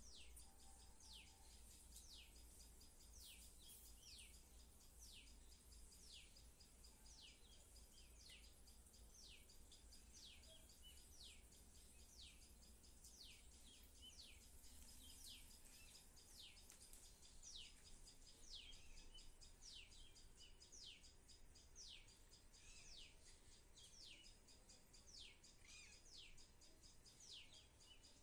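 Faint bird calls: one short high call falling in pitch, repeated about once a second with a steady rhythm.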